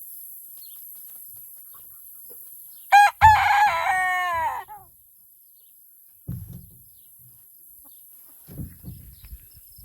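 A rooster crowing once, about three seconds in: a loud cock-a-doodle-doo lasting about a second and a half, whose pitch falls away at the end.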